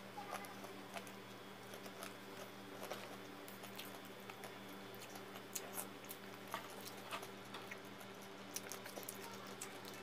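Faint mouth sounds of eating: chewing with scattered small clicks and crinkles, over a steady low hum.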